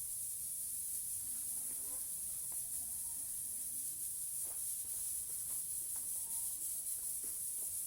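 Steady high-pitched hiss, with faint scattered clicks and a few soft short chirps.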